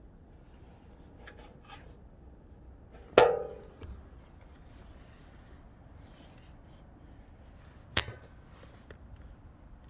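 Two sharp metal clanks, the first loud with a brief ring, the second about five seconds later and quieter, among a few faint clicks, as hand tools work on an exhaust pipe fitting being tightened.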